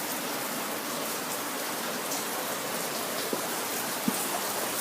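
Steady hiss of heavy rain and storm water running, with a couple of faint taps from drips.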